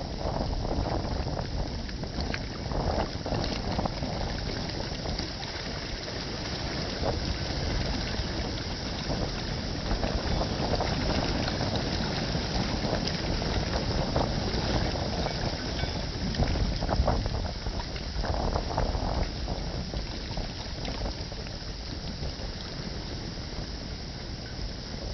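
Wind noise and water rushing past the hull of a sailboat under way at sea, a steady hiss that swells and eases with the waves.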